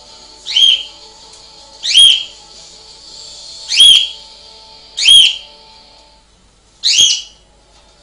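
A caged pet bird giving a short, loud, rising whistled call five times, about every one and a half seconds.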